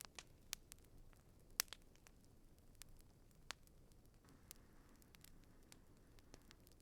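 Faint wood campfire crackling: irregular sharp pops and snaps over a low rush of burning, the loudest pop about one and a half seconds in.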